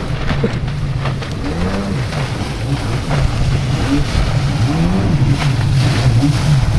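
Jet ski engine running and revving, its pitch rising and falling over and over as the throttle opens and eases, with wind noise on the microphone.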